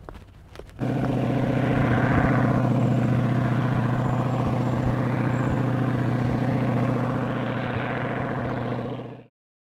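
Propeller airplane's piston engine running steadily. It comes in suddenly about a second in and cuts off abruptly near the end.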